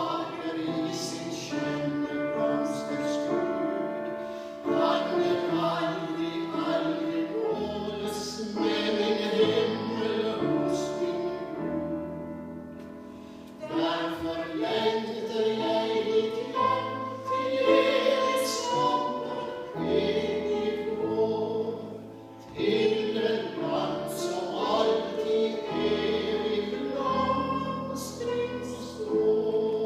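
Two women singing a hymn in Norwegian in long, sustained lines over a low accompaniment, pausing briefly between phrases.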